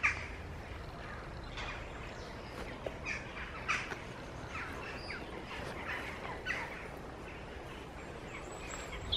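Wild birds calling and chirping outdoors, short calls every second or so over a faint steady outdoor background.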